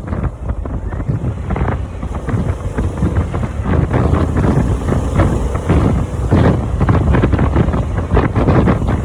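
Heavy wind buffeting on the microphone over the steady rumble of a Harley-Davidson motorcycle running at road speed.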